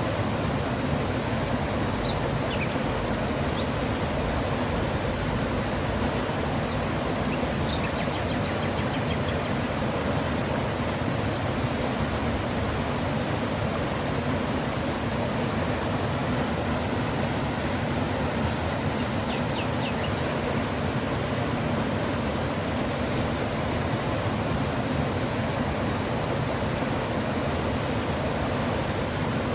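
Mountain river flowing, a steady rush of water. An insect chirps faintly and evenly, about twice a second, pausing briefly a few times.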